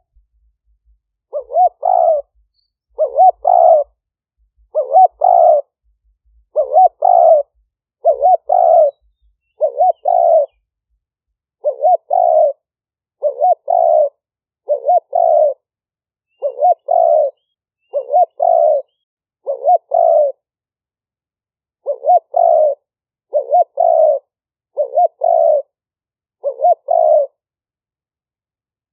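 Spotted dove cooing its call over and over, about seventeen phrases in a steady run, each a short note followed by a longer rolling coo, roughly one phrase every one and a half seconds. It is a decoy bird's territorial call, recorded for luring wild spotted doves.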